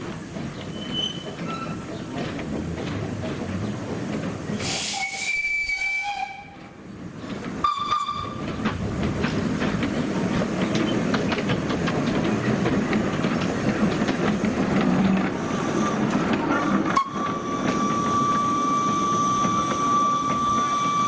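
Narrow-gauge steam train running, with a steady noise of wheels and steam and three whistle blasts: a high one about five seconds in, a short lower one near eight seconds, and a long steady one from about seventeen seconds on.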